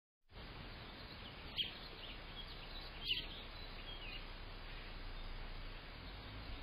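Songbirds chirping over a steady hiss, heard through a home security camera's microphone, with two louder chirps about a second and a half and three seconds in.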